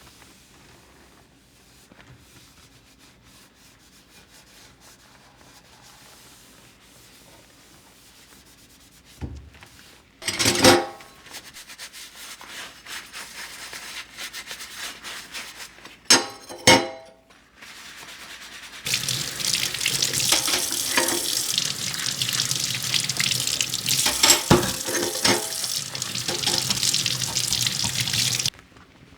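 Water tap running into a sink for about ten seconds, then shut off abruptly; a couple of short sharp clatters come before it.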